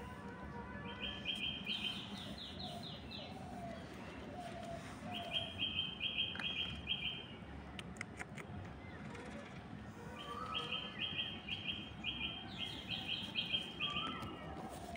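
A bird calling in three bouts of quick, evenly spaced high chirps, each bout a few seconds long, over steady background noise.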